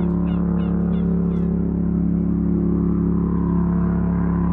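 A boat's mud motor running steadily at an even pitch. For the first second and a half a quick series of short chirping bird calls sounds over it.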